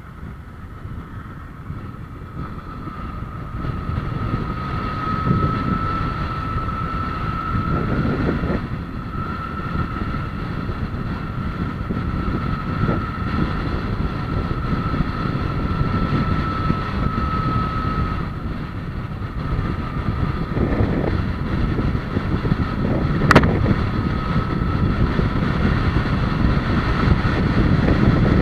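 Steady low rumble of a moving vehicle with wind buffeting the microphone, growing louder a few seconds in, with a faint steady whine over it and one sharp click near the end.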